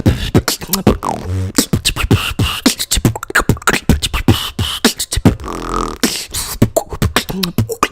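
Beatboxing: a fast run of vocal kick drums, snares, hi-hat clicks and bass sounds made with the mouth, with short pitched vocal effects woven in.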